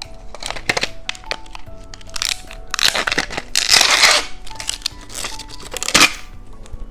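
Plastic candy wrapper crinkling and tearing as a gummy candy packet is opened, in a run of rustles and crackles, loudest about three to four seconds in, over background music.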